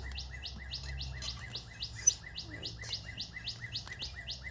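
A bird repeating a short high chirp about five times a second, fast and unbroken, like it is hyperventilating. A single sharp click sounds about two seconds in.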